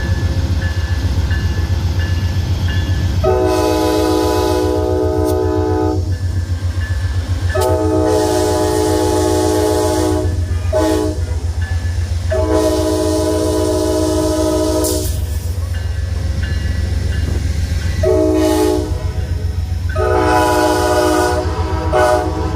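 Amtrak locomotive's multi-chime air horn blowing long, long, short, long, the grade-crossing signal, then a short and another long blast. Under it runs the steady low rumble of a passing train.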